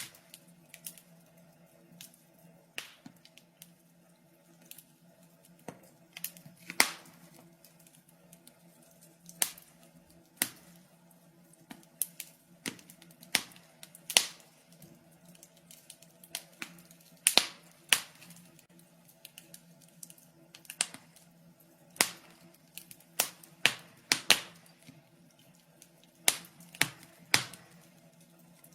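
Wood fire in a fireplace crackling: irregular sharp pops and snaps, a few loud ones, some in quick clusters, over a faint low steady hum.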